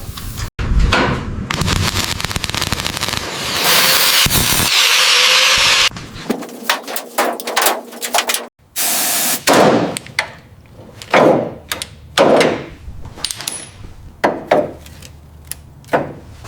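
Workshop work sounds: a run of separate knocks and clattering impacts, with a few seconds of steady hiss partway through, in short cut-together shots.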